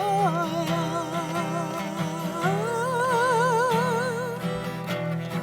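Sung music: a singer draws out the word "Sequoia" as one long note with a wide vibrato, stepping up in pitch about halfway through, over acoustic guitar accompaniment.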